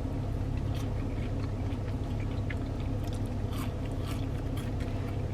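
Close-up chewing of crispy French fries, with small crunches and mouth clicks scattered through. A steady low hum runs underneath.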